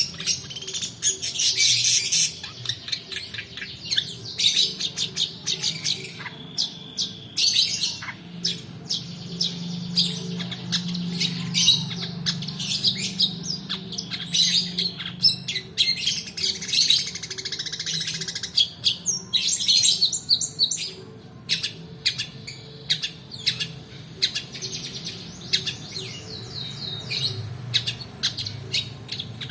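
Long-tailed shrike (pentet) singing a long, unbroken song of rapid chirps, rattling trills and harsh notes, with a low steady hum underneath.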